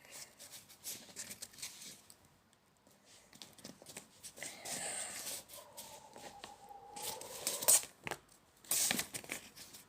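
A sheet of paper rustling and crinkling as it is folded and creased by hand, in short scattered bursts with a pause partway through.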